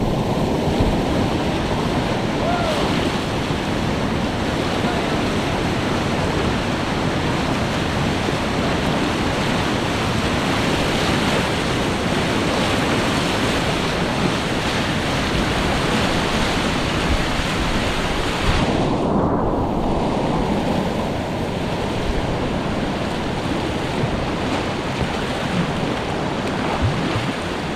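Whitewater rapids rushing steadily, heard close up from the kayak, with wind buffeting the microphone. The higher hiss drops away for about a second roughly two-thirds of the way through.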